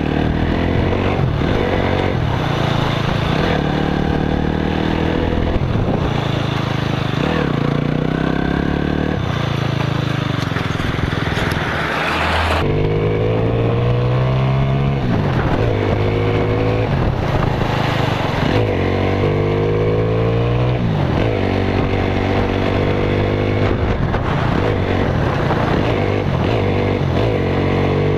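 Motorcycle engine running while riding, its pitch climbing and dropping again and again as the rider accelerates and shifts gears. The sound changes abruptly about twelve seconds in.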